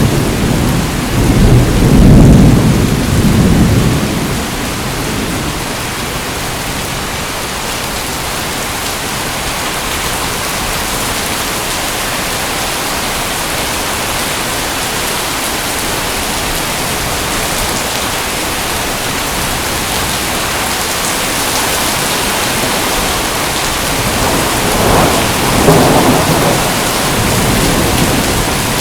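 Steady heavy rain falling, with low rolls of thunder in the first few seconds and again about 25 seconds in.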